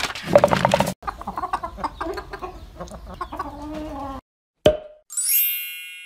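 Cartoon hens cackling loudly and then clucking, followed by a short plop a little before five seconds in and a bright ringing ding that fades away.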